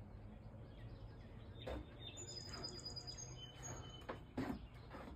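Faint small birds chirping outdoors: a short, rapid high trill and a few thin whistled notes in the middle, over a low steady background hum. A few soft knocks or rustles, the loudest near the end.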